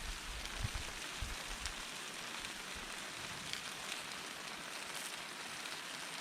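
Steady rain falling, an even hiss with scattered drop ticks and a few low bumps in the first two seconds.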